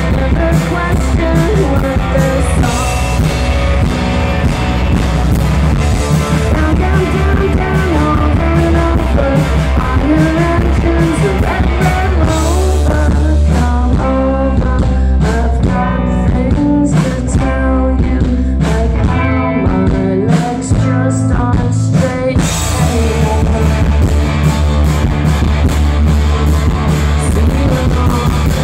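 Indie-pop band playing live: electric guitar, bass and drums with vocals. About halfway through, the band thins to a sparse, choppy section, then the full band comes back in near the end.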